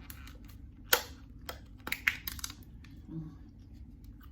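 A few sharp clicks and taps from handling food containers and utensils, the loudest about a second in and a quick cluster around two seconds in.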